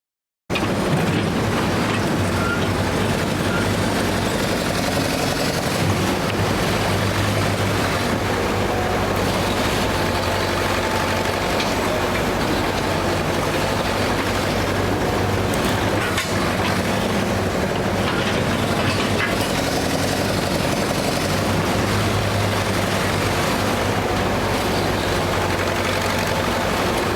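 Diesel engine of an International Harvester 270A backhoe running steadily, cutting in suddenly about half a second in, with a strong low hum that swells a little now and then.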